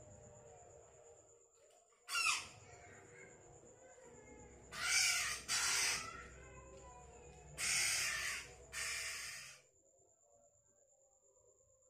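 Harsh, raspy squawking calls in five bursts, the loudest about five and eight seconds in, from a black-naped oriole and a fruit bat squabbling over banana.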